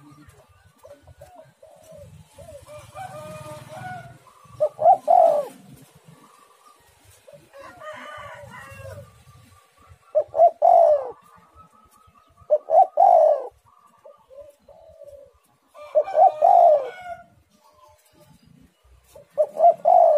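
Spotted dove (tekukur) cooing: five loud coo phrases a few seconds apart, with quieter calls in between.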